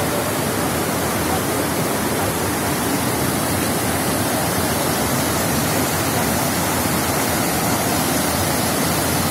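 Water rushing steadily, an even roar with no breaks.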